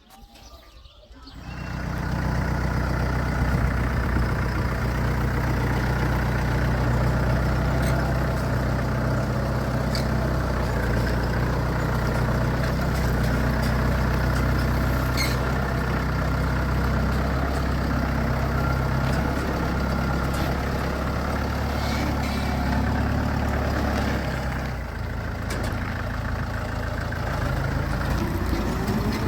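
A motor vehicle engine running steadily, its sound starting suddenly about a second and a half in and changing in pitch near the end.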